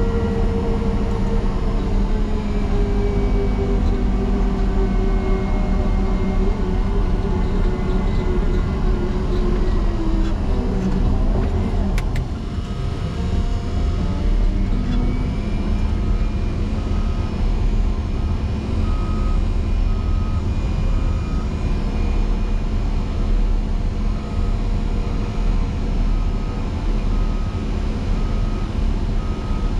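Motor grader diesel engine under heavy load, its pitch sinking steadily as the blade pushes into a deep snow drift and the engine lugs down. About halfway through, the machine goes into reverse and its backup alarm starts beeping about once a second over the running engine.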